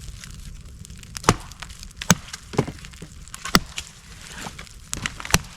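Firewood being split: sharp wooden knocks and cracks, about five loud blows at uneven intervals with lighter knocks between them.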